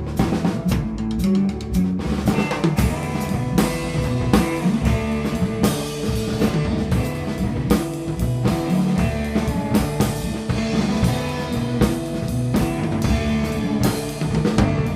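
Instrumental rock band playing: drum kit with steady hits, electric guitar and bass guitar, in a rough mix.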